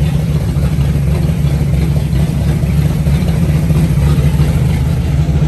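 Freshly built 360 stroker V8 running at a steady idle during its first start-up.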